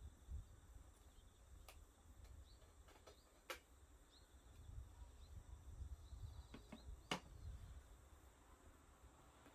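Faint, sparse crackles and pops from wood burning in a small wood stove, over a low rumble; the sharpest pops come about three and a half and seven seconds in.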